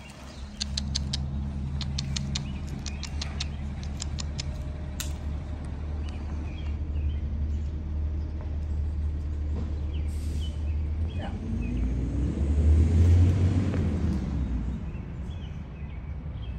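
Road vehicle passing, its rumble swelling and fading, loudest about two-thirds of the way through, over a steady low engine-like hum. A run of quick sharp clicks sounds in the first few seconds, and a few faint chirps come near the middle.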